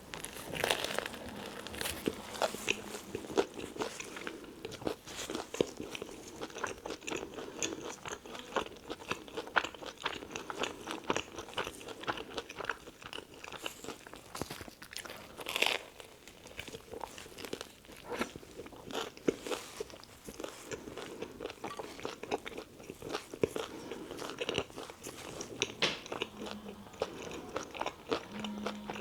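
Close-miked chewing of a toasted tuna melt sandwich: steady, dense crunching of the crisp bread, with one louder crunch about halfway through.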